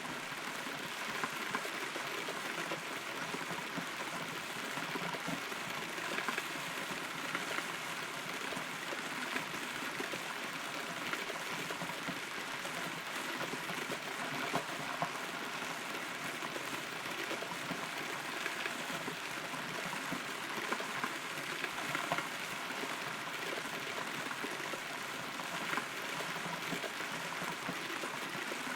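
Steady rain heard from inside a hollow, rotten tree trunk, with scattered louder drops striking close by.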